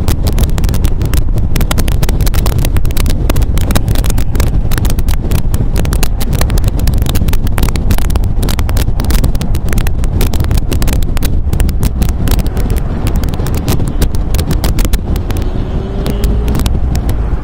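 MG A roadster on the move: engine and road rumble under heavy wind buffeting on the microphone, easing off and getting quieter near the end.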